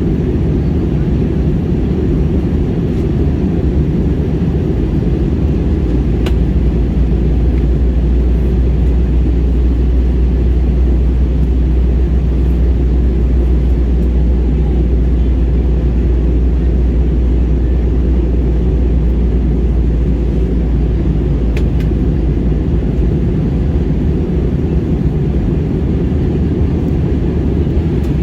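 Steady low rumble of an airliner cabin in flight: jet engine and airflow noise, even in level throughout. Two faint clicks about six seconds in and near the end.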